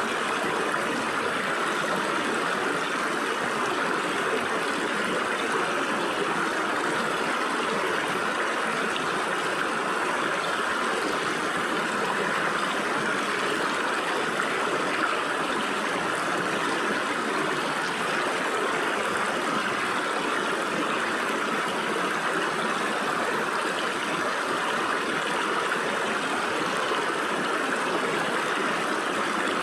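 Stream water flowing and splashing through gaps between rocks: a steady, even rush.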